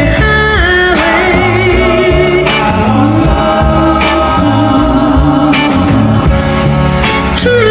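Classic soul song playing: a sung melody with wavering, held notes over a band with bass and drums.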